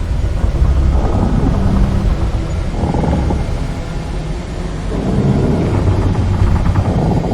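Deep steady rumble with two swells of rougher, rushing noise, about a second in and again about five seconds in.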